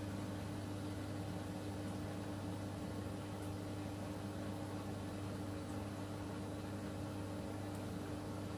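Miele W1 front-loading washing machine running mid-cycle: a steady machine hum with a constant low tone, unchanging throughout.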